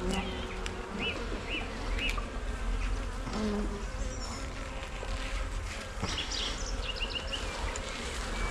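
Honey bees humming steadily around an open hive during a frame-by-frame inspection of a strong colony.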